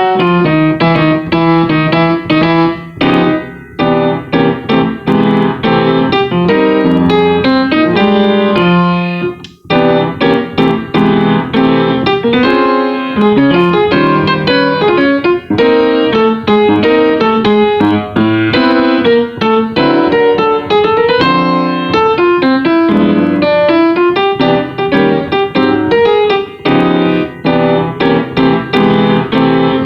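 Solo piano playing a jazz tune, with a bass line in the left hand under chord voicings. The playing breaks off briefly about three and nine seconds in.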